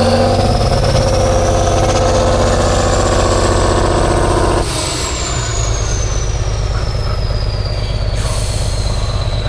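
Heavy truck-trial truck's diesel engine running hard under load, with a high whistle climbing alongside it. About four and a half seconds in the throttle is abruptly closed: the engine drops to a lower rumble and the whistle slowly falls away.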